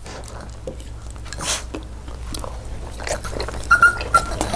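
Close-miked chewing and biting of food. Near the end, a dog gives two short, high whines.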